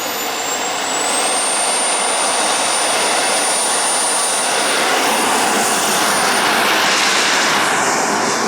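RC model jet's miniature turbine engine running with a loud rushing jet noise and a high whine that rises in pitch about a second in, then holds steady.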